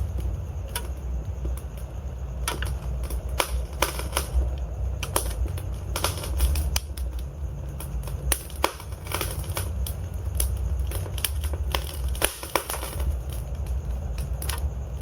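Burning logs in a wood fire crackling, with irregular sharp pops and snaps over a steady low rumble of the flames.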